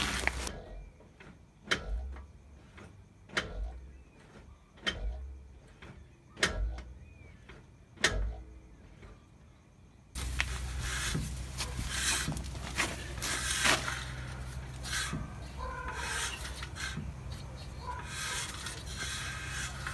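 A rear brake rotor with a drum-in-hat parking brake being turned by hand. It gives a short scrape-knock about every second and a half, where the parking brake shoes are just catching inside the drum. About halfway through, a steadier background noise with scattered handling clicks starts abruptly.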